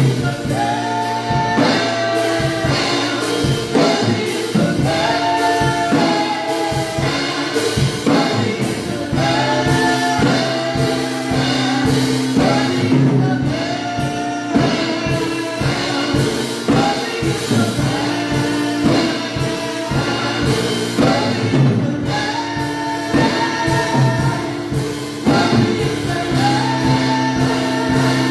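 Live gospel worship music: sung vocal lines over sustained keyboard chords and a steady drum beat.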